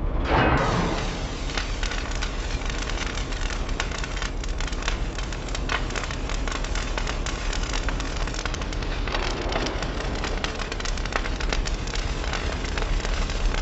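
Steady crackling hiss full of small sharp clicks, running without letup over a constant low hum.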